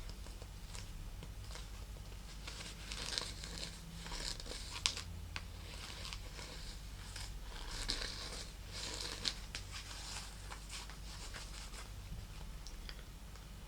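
Fingernails scratching and rubbing over a snake-leather clutch, in uneven scratchy strokes with a few sharp taps or clicks, busiest in the middle.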